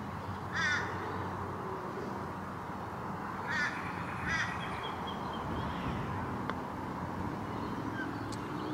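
A bird giving short harsh calls: one about a second in and two close together in the middle, over a steady background hiss. A faint tick a little past the middle is the putter striking the golf ball.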